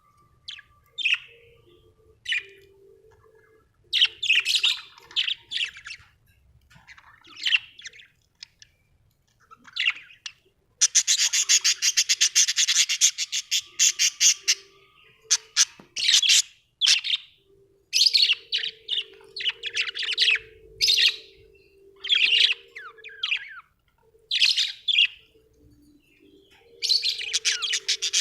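Budgerigars chirping in short, high bursts every second or two, with a few seconds of rapid, continuous warbling chatter a little before the middle.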